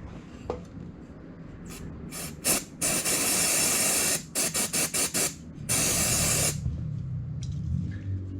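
Pressurised spray hissing in bursts: a few short puffs, a long spray of about a second and a half, a quick run of about five short puffs, then another spray of nearly a second.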